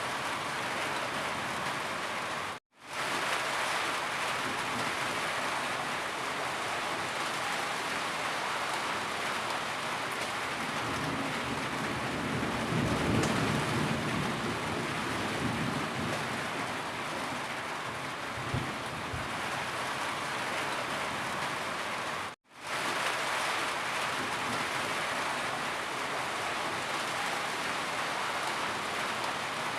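Steady, heavy rain falling, an even wash of drops, with a deeper swell of low rumble in the middle. The sound cuts out to silence twice for a split second, about three seconds in and again about twenty-two seconds in.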